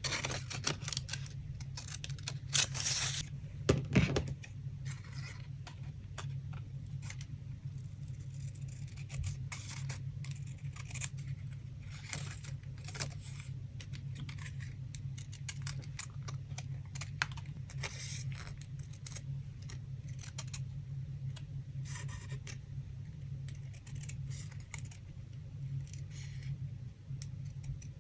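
Paper collage materials being handled: irregular rustling, scraping and small clicks and taps, with a louder clatter about three to four seconds in, over a steady low hum.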